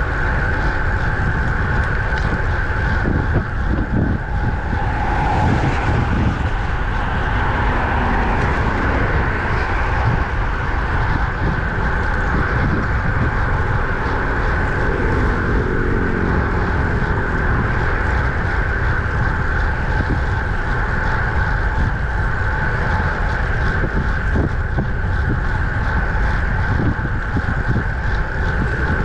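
Steady wind rush and road noise while riding a road bike at speed, with a motor vehicle passing about halfway through as a falling engine pitch.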